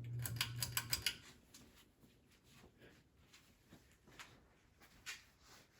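A 2004 Harbor Breeze Ocracoke 42-inch ceiling fan spinning down. Its motor hum cuts off about a second in amid a quick run of clicks, then faint, irregular ticks follow as it coasts.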